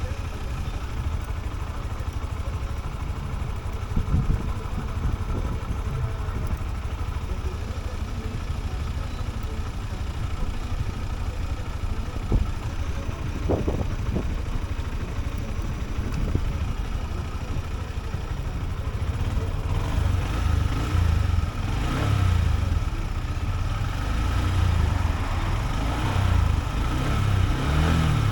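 Honda CB125F's single-cylinder four-stroke engine running with a steady low rumble, growing louder for the last several seconds.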